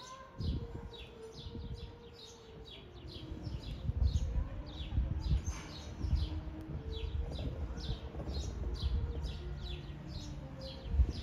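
A songbird calling over and over: a quick falling chirp repeated about two or three times a second. Low gusts of wind rumble on the microphone, loudest a few seconds in and again near the end.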